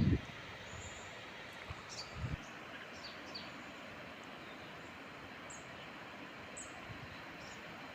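Small birds chirping now and then, short high calls falling in pitch, over a steady outdoor hiss, with a couple of faint low knocks about two seconds in.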